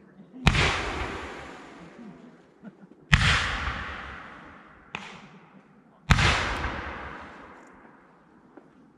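Three loud aerial firework shell bursts, about three seconds apart, each followed by a long echo that fades away over a couple of seconds. A smaller crack sounds between the second and third.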